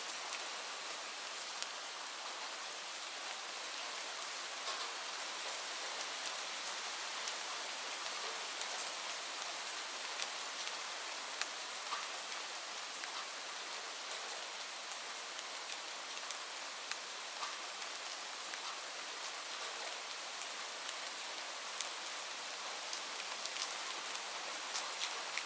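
Steady rain pattering on leaves, a continuous hiss with scattered sharper drop ticks.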